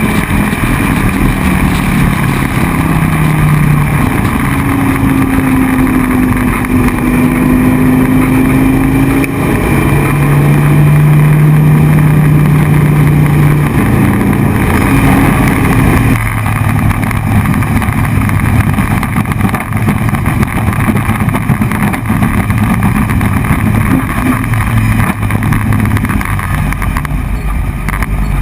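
Dodge Viper race car's V10 engine at racing speed. Its pitch climbs and falls through the gears, and the revs drop suddenly about two-thirds of the way through as the driver lifts off.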